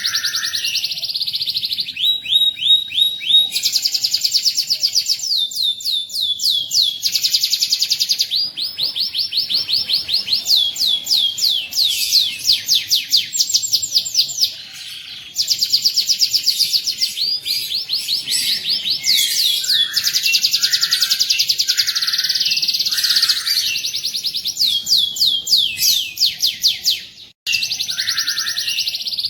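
Domestic canary singing a long, fast song of rolled trills: strings of rapidly repeated high notes running one into the next. The song drops off briefly about halfway and cuts out suddenly for a moment near the end.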